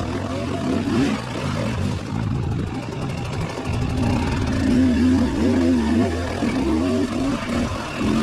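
Motorcycle engine running under way, its pitch wavering up and down with the throttle, over rough road and wind noise.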